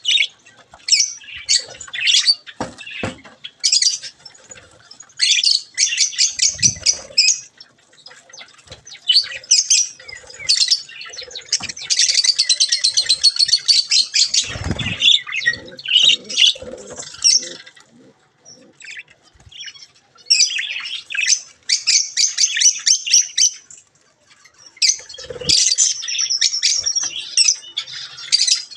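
Budgerigars chattering and squawking in rapid bouts of high calls, with short pauses between bouts and occasional wing flaps or bumps.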